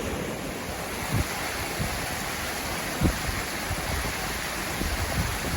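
Waterfall and creek water rushing in a steady, even roar, with two brief low bumps about a second and three seconds in.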